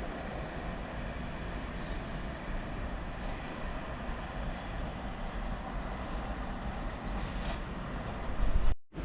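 A train running through a railway station: a steady rumble of wheels and running gear that swells louder shortly before it cuts off abruptly near the end.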